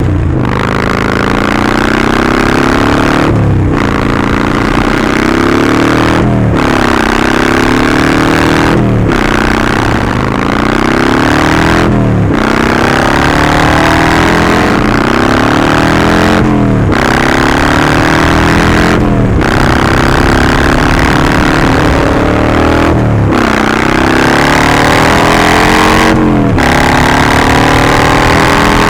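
Harley-Davidson Sportster Forty-Eight's air-cooled 1200 cc V-twin through a Vance & Hines slip-on exhaust, riding under acceleration. The engine note climbs for two to three seconds, then drops sharply with a brief break before climbing again, about ten times over.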